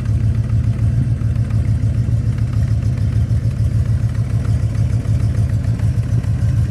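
1967 Cadillac Eldorado's 429 V8 idling, heard at its enlarged true dual exhaust: a steady, low, pulsing exhaust note.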